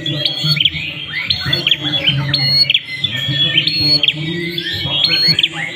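Prinia (prenjak) calling: a busy run of short, sharp, repeated chirps.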